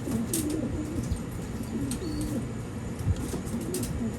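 Racing homing pigeons cooing, several low, swooping coos following one another, with a few light clicks among them.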